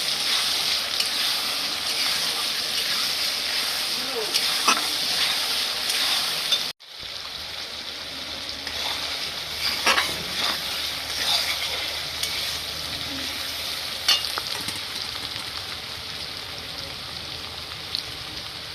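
Sliced onions sizzling as they fry in oil, being browned, with a few clicks and scrapes of a spatula stirring them in the pan. After a brief break in the sound about seven seconds in, the sizzling goes on a little quieter.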